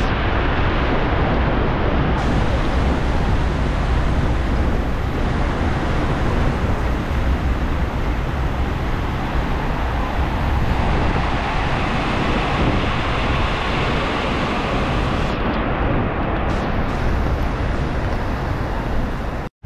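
Heavy rain pouring on a wet street, mixed with the steady noise of a vehicle driving through it: tyres hissing on the wet road and a low rumble of engine and wind on the microphone. It cuts off abruptly near the end.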